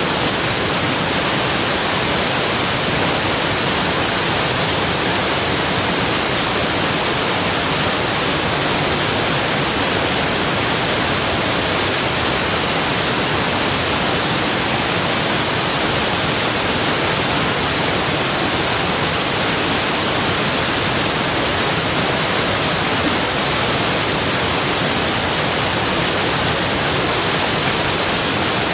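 Waterfall's flowing water: a steady, even rush with no breaks or changes.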